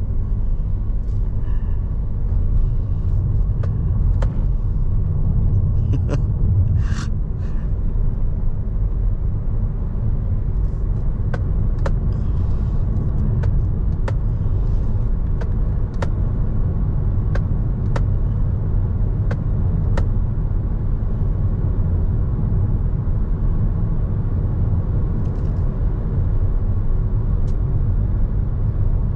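Steady low road and tyre rumble heard inside the cabin of a moving Toyota Innova Hycross. A run of sharp clicks comes roughly once a second through the middle stretch.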